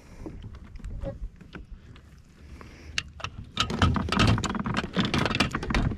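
Rattling clicks and knocks of a smallmouth bass being lifted out of a rubber landing net and unhooked in a kayak, sparse at first and then a dense, loud clatter from about halfway through.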